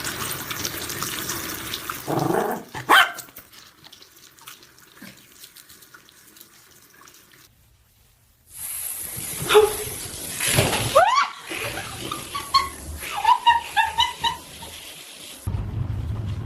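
A dog whining and yelping: short rising cries and clusters of brief high notes, over a steady hiss.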